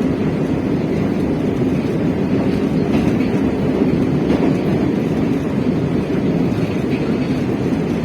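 Moscow metro train running between stations, heard from inside the car: a steady, even rumble of the wheels on the rails and the car's running noise.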